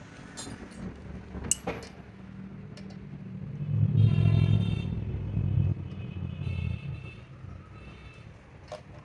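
A motor vehicle's engine swells in to its loudest about four seconds in and then fades, as if passing. A few sharp metallic clicks come in the first two seconds.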